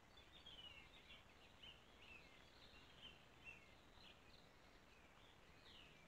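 Faint birdsong: a continuous run of short chirps and warbling notes over the steady hiss of a trail camera's microphone.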